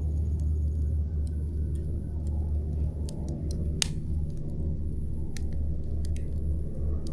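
Campfire burning with scattered crackles and a single sharp pop just under four seconds in, over a steady low rumble.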